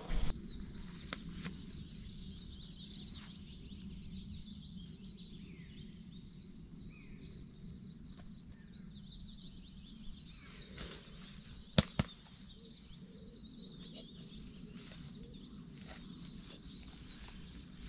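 Birds singing and chirping steadily in woodland over a low outdoor rumble, with a few sharp knocks, the loudest a quick double knock about twelve seconds in.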